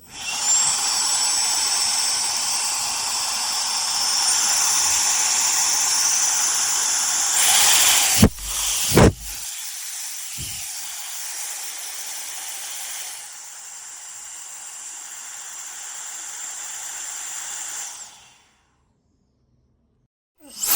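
Compact electric air duster's high-speed turbo fan blowing: a high whine over rushing air that climbs in pitch a few seconds in. Two sharp knocks come about midway, then it runs quieter, steps down again and stops shortly before the end.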